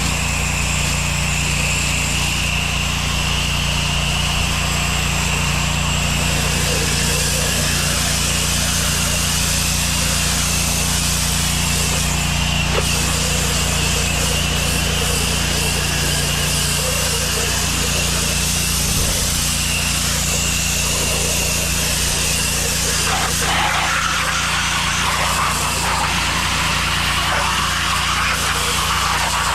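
Gas-engine pressure washer running steadily under load, its motor hum constant, with a steady high-pitched whine from the spray.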